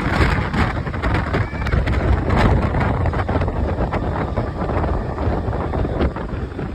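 Mumbai suburban electric local train running, with steady rumble and rattling clacks of wheels and carriage, and wind buffeting the microphone.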